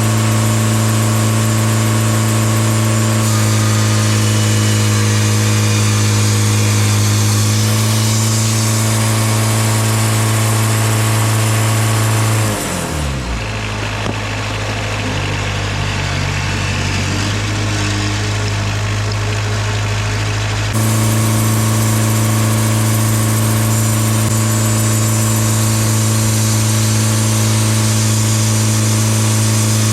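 Sawmill's gasoline engine running steadily at speed. About twelve seconds in its pitch drops sharply as it slows, running lower for several seconds, then the steady higher running returns abruptly about twenty seconds in.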